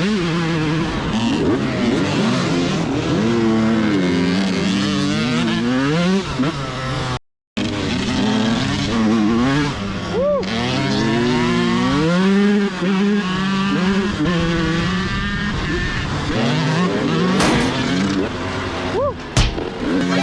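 125cc two-stroke dirt bike engines revving, their pitch rising and falling over and over as the throttle is opened and closed, with more than one bike heard at times. The sound cuts out briefly about seven seconds in, and there are a couple of sharp knocks near the end.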